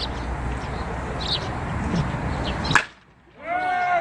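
Baseball bat striking a pitched ball: a single sharp crack about three seconds in, over steady outdoor noise. Voices start shortly after.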